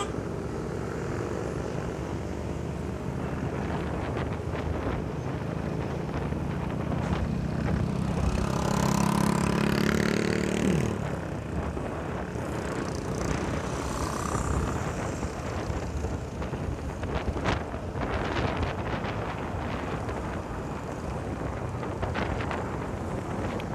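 Riding noise from a motorcycle on a highway: a steady engine hum mixed with road and wind noise. A louder vehicle sound builds about eight seconds in and falls away in pitch around eleven seconds in.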